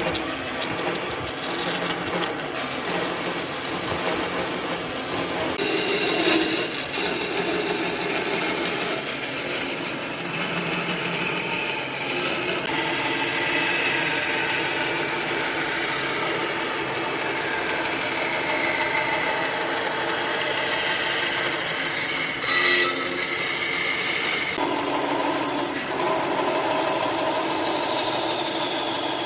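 Power tool running on wood without a break, its pitch and tone shifting several times as the work goes on, with one brief louder moment about three-quarters of the way through.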